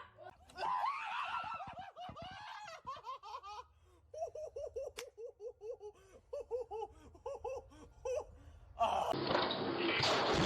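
High-pitched laughter, a long run of short repeated bursts. About nine seconds in, a loud rushing noise cuts in and drowns it out.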